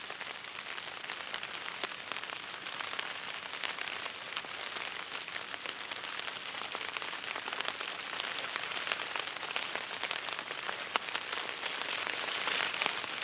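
Steady rain pattering on a tarp overhead: a constant hiss with many small sharp drop ticks.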